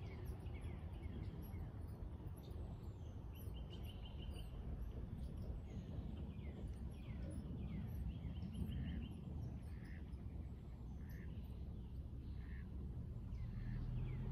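Songbirds chirping and calling, with short downward-slurred notes and a couple of quick trills of repeated notes, over a steady low outdoor rumble.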